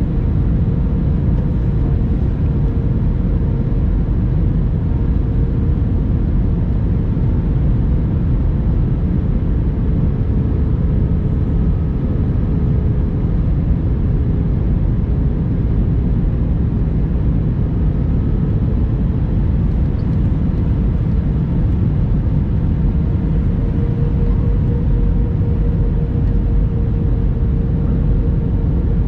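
Steady cabin drone of an Airbus A321-200 airliner: jet engine and airflow noise as heard inside the cabin, a deep rumble with a constant hum.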